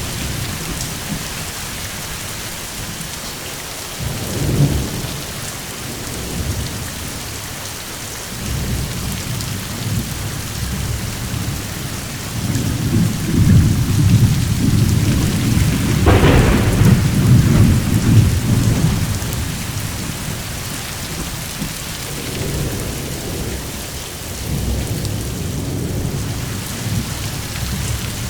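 Steady rain with rolling thunder. Low rumbles swell briefly about four seconds in, then at length through the middle with a sharper crack partway, and once more near the end.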